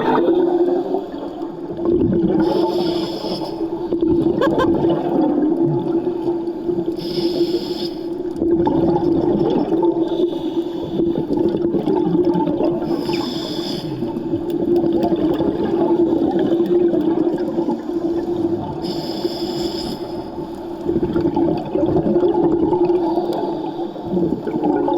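Scuba diver breathing through a regulator underwater: a short hiss about every five or six seconds over continuous bubbling and a steady low hum.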